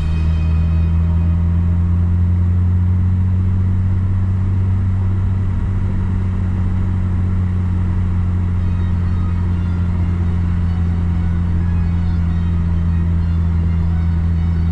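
A car's engine and road noise making a steady low hum while driving at an even speed.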